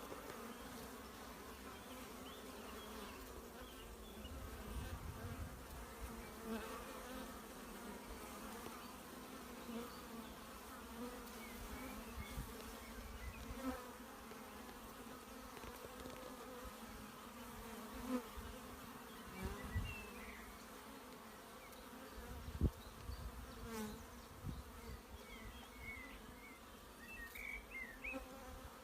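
Honeybees at a hive buzzing in a continuous drone, with a few low thumps, one sharper than the rest a little over two-thirds through.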